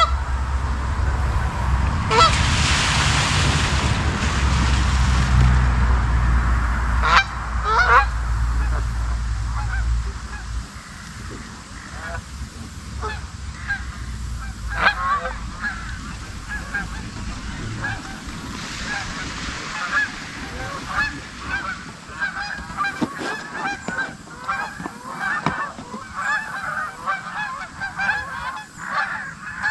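Flock of geese honking: a few scattered calls at first, building into a dense chorus of many overlapping honks over the last ten seconds. A low rumble runs under the first ten seconds.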